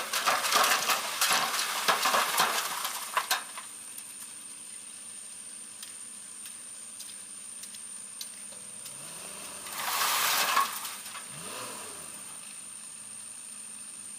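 Doosan excavator bucket scraping and dumping earth and stones: a gritty crackling rush for the first three seconds or so and again briefly about ten seconds in, over the steady drone of the running machine.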